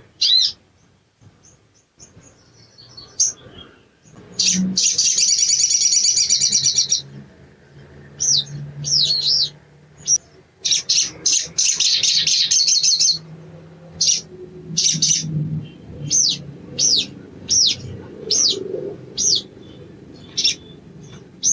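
Sogon bird (sogok ontong) singing: a series of short, sharp, high chirps that sweep downward, broken twice by long rapid chattering trills, about five seconds in and again about eleven seconds in.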